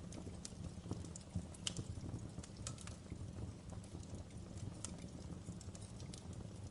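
Wood fire crackling in a fireplace: irregular sharp snaps and pops over a low steady rumble of the flames.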